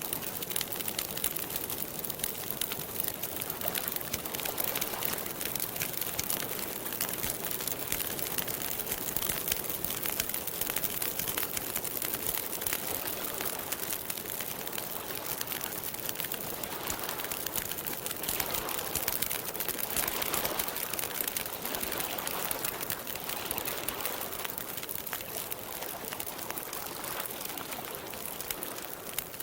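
Wood campfire crackling and popping steadily, a dense run of small snaps over a soft hiss.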